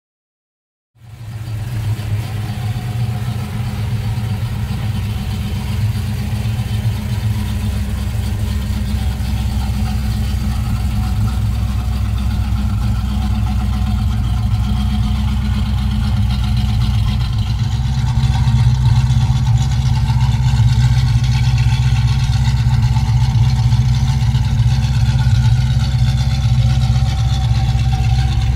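1969 Pontiac GTO's rebuilt 400 V8, breathing through headers and dual exhaust, idling steadily with a deep low rumble that comes in about a second in and gradually gets a little louder.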